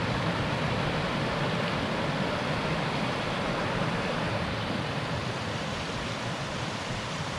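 Creek water rushing: a steady, even noise with no letup.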